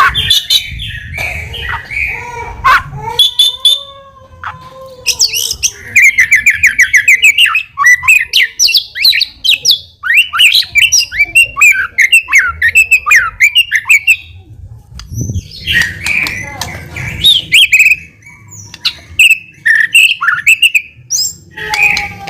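White-rumped shama (murai batu) singing a loud, varied song in full voice, with a long run of fast repeated notes in the middle and short pauses between phrases.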